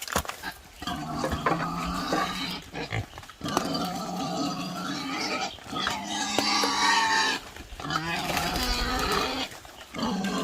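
Wild boars grunting and squealing in several drawn-out calls with short breaks between them.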